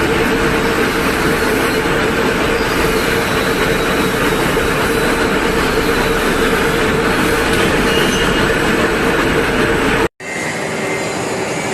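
Metal-cutting machine tool running under load: a loud, steady machining noise with a constant whine. It breaks off about ten seconds in and picks up again with a slightly lower whine.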